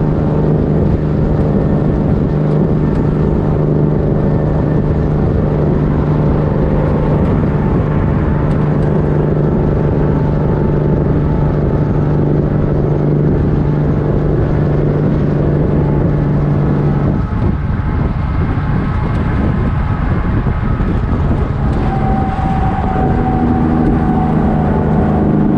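Kenworth W900 truck's diesel engine through straight-pipe exhausts, running loud and steady. About two-thirds of the way through, the note breaks up, then it settles into a new steady pitch near the end.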